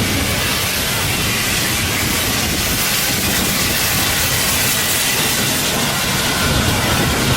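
Steam locomotive giving off a steady hiss of steam over a low rumble.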